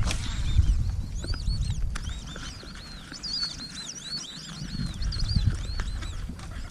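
Birds chirping: many short, arched calls overlapping one another, over a low rumble that is loudest at the start and fades.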